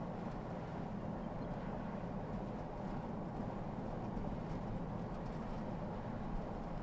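Steady low rumble of a running vehicle, with a few faint ticks.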